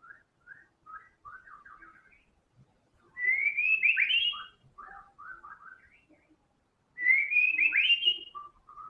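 White-rumped shama (murai batu) singing: soft short whistled notes, then two loud rising whistled phrases about four seconds apart, with quieter notes between them.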